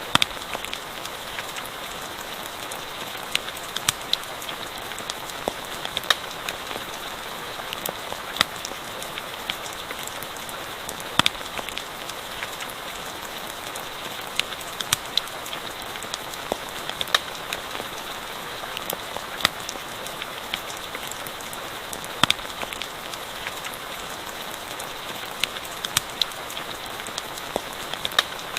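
Steady rain falling, with irregular sharp pops and crackles from a campfire.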